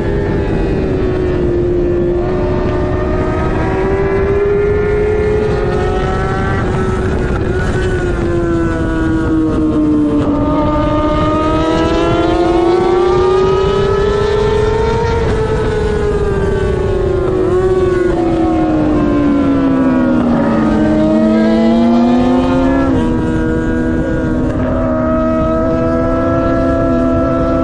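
Middleweight superbike engine at race pace, its pitch climbing under acceleration and dropping back repeatedly through shifts and braking, over a steady low rush of wind. Near the end the revs hold nearly level.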